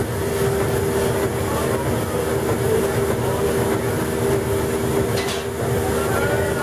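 Steam tug machinery running: a steady tone over a dense, rhythmic low rumble, with a short hiss about five seconds in.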